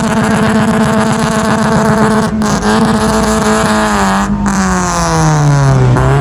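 Car engine held at high revs during a burnout. The note holds steady, then sags over the last couple of seconds and starts climbing again at the very end.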